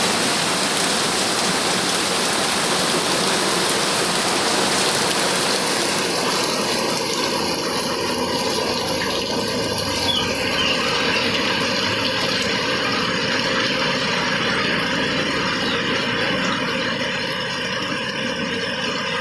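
Heavy rain pouring down steadily, a loud even hiss that eases a little about six seconds in.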